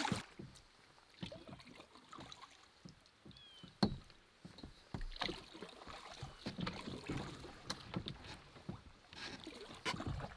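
Canoe being paddled: soft splashes of the paddle in the water and irregular light knocks on the hull, with one sharper knock about four seconds in.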